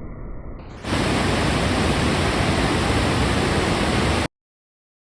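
Loud, steady rushing noise that starts abruptly a little under a second in and cuts off dead about three and a half seconds later, following a quieter muffled rumble.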